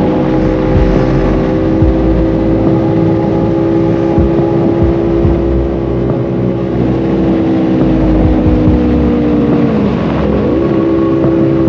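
Motorcycle engine running at a steady cruise with low wind rumble. Its pitch sags slightly, dips sharply about ten seconds in, then comes back up to the same level.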